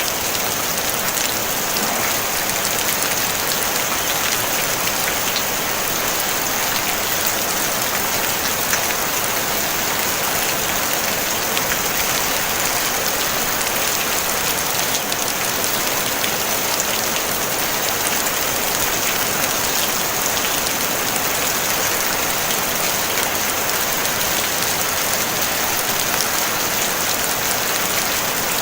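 Steady rain falling on a tin roof: a dense, even patter of many fine drop ticks with a strong hiss, unchanging throughout.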